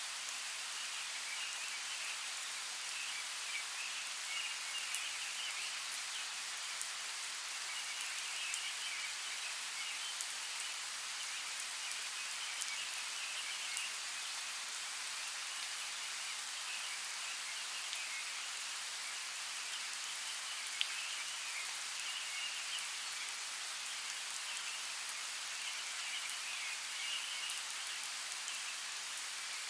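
Steady rain falling in a forest: an even hiss of rain with scattered sharp drip ticks. A higher-pitched chorus comes and goes underneath.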